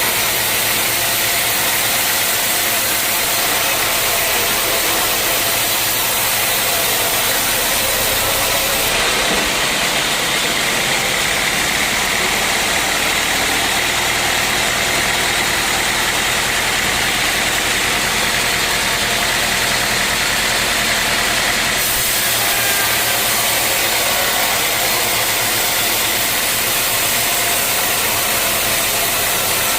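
Sawmill machinery running steadily. From about nine seconds in, a higher hiss and a stronger low drone join it for some thirteen seconds, then drop back off.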